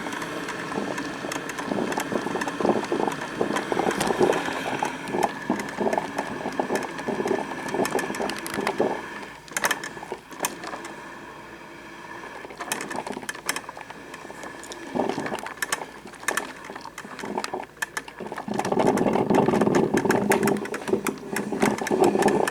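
Black & Decker thermal-carafe drip coffee maker brewing, its heater gurgling and sputtering in a dense run of rapid crackles, quieter in the middle and louder again near the end.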